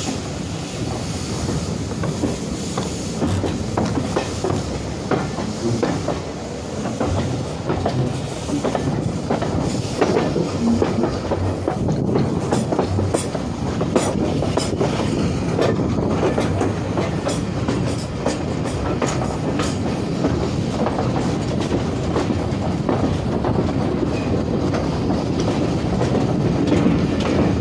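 Passenger coach of a heritage train running along the line, a steady rumble with the wheels clicking over the rail joints.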